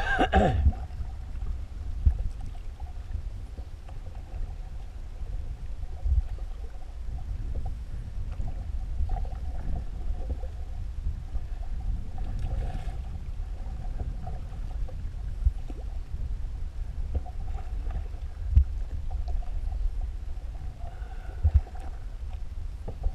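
Canoe on a river: a steady low rumble of wind on the microphone over faint water sounds, with a few short knocks against the canoe.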